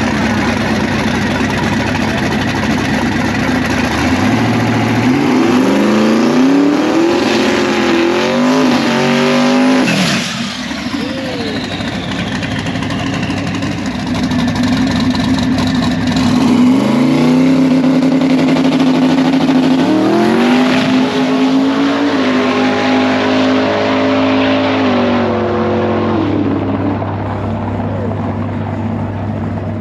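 Twin-turbo small-block Mopar V8 in a 1968 Dodge Dart drag car at full throttle down the drag strip, its pitch climbing in steps through the gear changes. This happens twice, about four seconds in and again about halfway through, and the engine settles to a steady lower note near the end.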